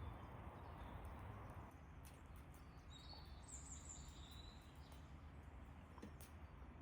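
Quiet outdoor ambience: a low steady background hiss with a few faint clicks, and a bird calling a short run of high, sliding notes about three seconds in.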